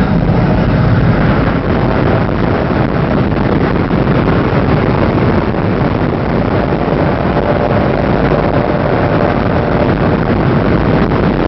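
Steady rumble and rush of a high-speed passenger train running at speed, heard from inside the carriage.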